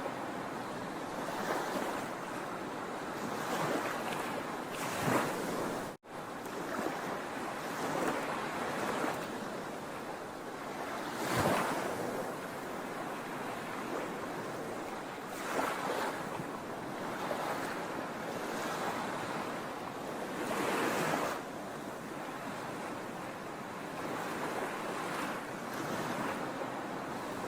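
Sea waves breaking on a shore: a steady wash of surf that swells as a wave crashes every few seconds. The sound cuts out for an instant about six seconds in.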